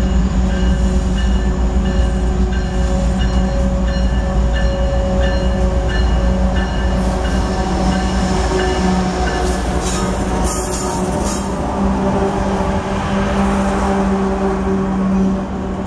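Train passing close by, a loud steady rumble with regularly repeating clicks of wheels over the rail joints.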